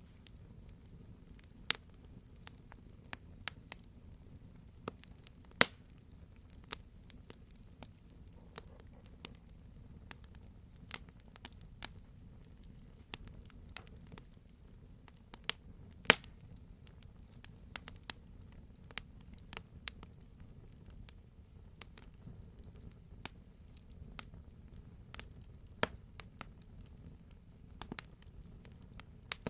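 Wood campfire crackling, with irregular sharp pops and snaps over a low steady rumble of the burning. The loudest pops come about five seconds in and twice around the middle.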